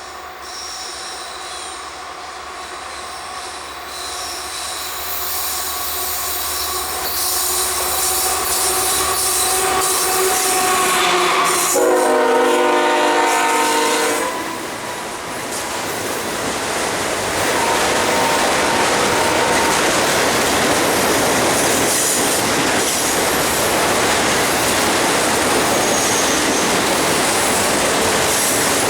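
A train approaching and passing close by, growing louder for the first dozen seconds. Near the middle it sounds one long warning blast of about two and a half seconds. After that come the steady rumble and rail clatter of cars rolling past, with high wheel squeal.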